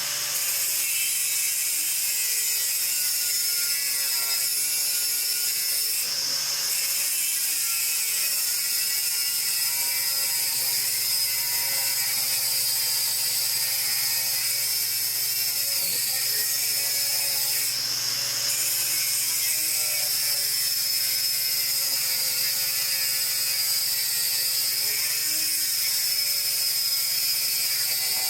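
An electric power tool runs continuously in a metal shop. Its high whine holds steady and dips briefly about halfway through, as if the tool is loaded against the work.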